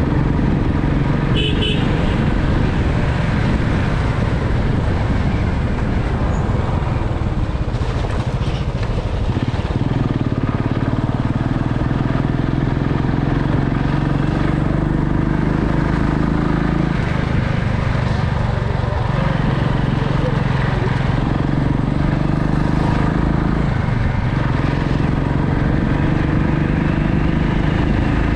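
A motorcycle engine running on the move, its note stepping up and down several times as the rider works the throttle and gears, over a steady rush of noise.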